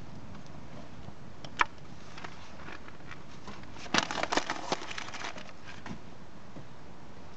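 Bonfire burning and crackling: one sharp pop about one and a half seconds in, then a quick run of snaps and pops around the middle, over a steady low hiss.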